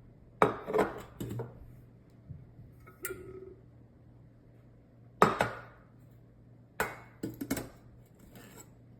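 Glass teaware clinking and knocking as it is handled and set down: about five short bouts of sharp clinks, one about three seconds in with a brief ringing ping.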